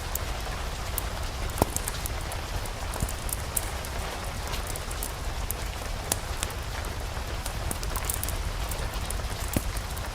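Steady rain with a low rumble underneath, scattered with many short sharp ticks.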